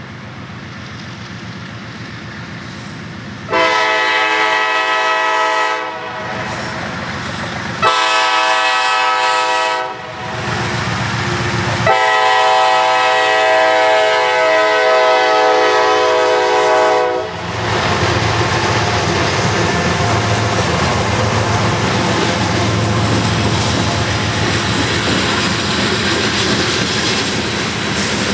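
CSX freight train's diesel locomotive air horn sounding three blasts, the last one long, as the train comes up. Then the locomotives' low engine rumble and the steady rolling clatter of hopper cars going past.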